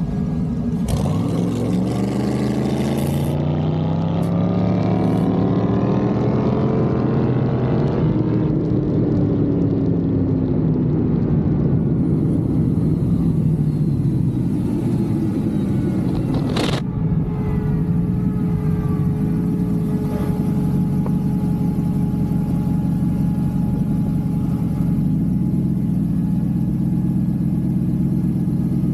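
BossHoss V8 motorcycle engine heard from on board, launching down the drag strip: its pitch climbs steadily for about seven seconds under hard acceleration, then falls away as the throttle closes, and it runs on steadily at lower revs. A single sharp knock comes a little past halfway.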